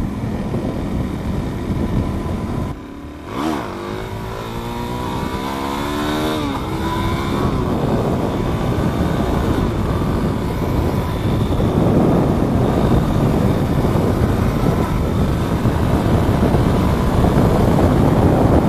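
Supermoto motorcycle engine under way: it drops off briefly about three seconds in, then revs up with a rising pitch and runs on steadily.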